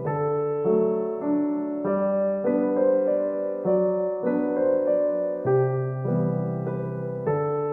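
Background music: a gentle solo piano piece, with chords and melody notes struck about every half second and left to ring.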